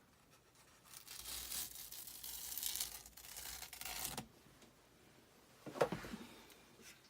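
A squeegee scraping chalk paste across a silkscreen transfer, a rasping scrape for about three seconds, then one short squeak near the end.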